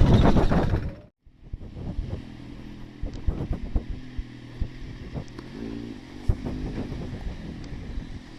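Motorcycle running under way with wind on the microphone, cut off abruptly about a second in. Then quieter street traffic with an engine running and scattered clicks.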